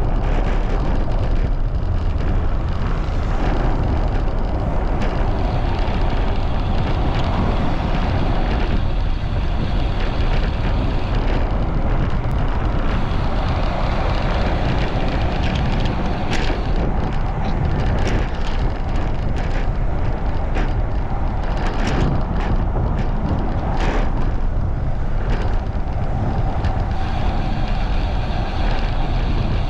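Strong wind buffeting the microphone of a camera riding on a fast-moving bicycle: a steady, heavy rumble, with a few short clicks and knocks from about sixteen seconds in.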